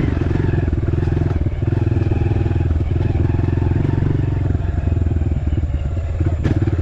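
Dirt bike engine running while riding a trail, a steady rapid pulsing with short easings of the throttle about a second and a half in and again towards the end. A single sharp click near the end.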